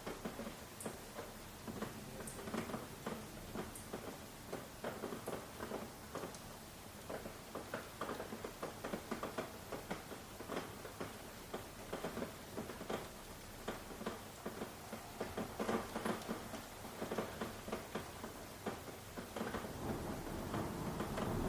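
Rain pattering on a hard surface: many separate drops ticking at an uneven pace, with no steady rush of heavy rain.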